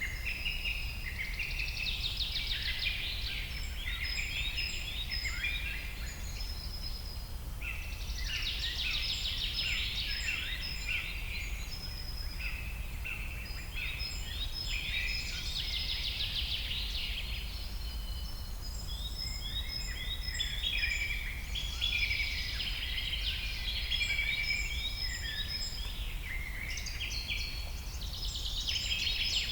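Several birds singing and calling at once, a busy chorus of overlapping chirps and trills that swells and eases every few seconds, over a steady low rumble.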